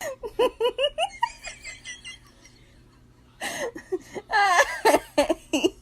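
A person laughing in quick repeated bursts, which fade after about two seconds; after a short pause, louder bursts of laughter follow.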